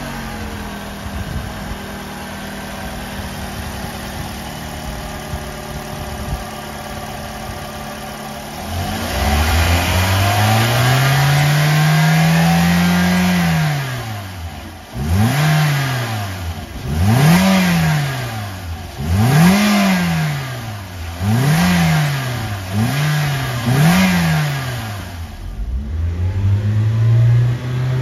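Toyota 1NR-FE 1.3-litre four-cylinder engine of a 2012 Ractis idling steadily, then revved: one long rev about nine seconds in, then six quick blips of the throttle, settling back to idle before rising again near the end.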